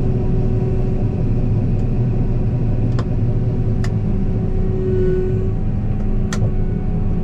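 Heavy farm-machinery engine running steadily under load, with a few sharp clicks about three, four and six seconds in.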